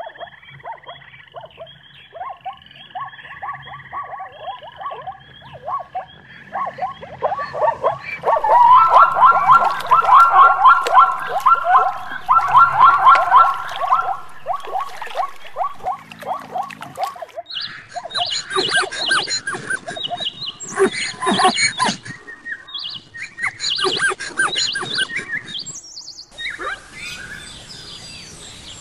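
Zebras calling in long series of rapid, repeated barking yelps, loudest a third of the way in, with birds chirping behind. Near the end the sound switches to a steady hiss with different animal calls over it.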